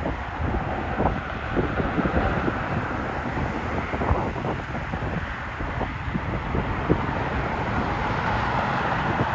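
Gusty wind buffeting the microphone, over the steady noise and whine of a distant jet airliner's engines.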